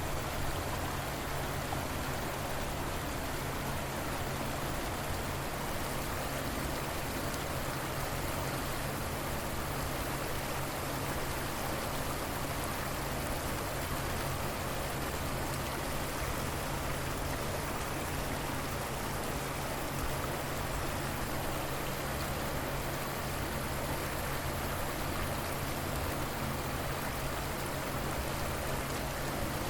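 River water flowing in a steady, even rush, with a faint low hum underneath.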